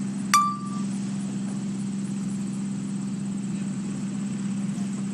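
A single short electronic beep about a third of a second in, over a steady low hum.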